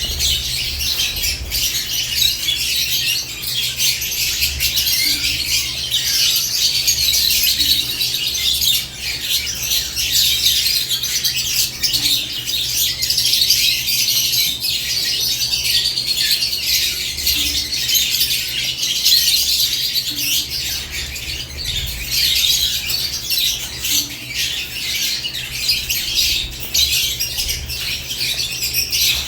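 Several caged lovebirds chattering without pause, a dense mix of shrill chirps and squawks with a steady low hum underneath.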